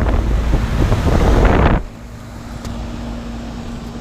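Wind buffeting the microphone for the first couple of seconds, then it stops suddenly. Under it, the steady hum of a running Williamson heat pump's outdoor unit, with one steady low tone from the compressor.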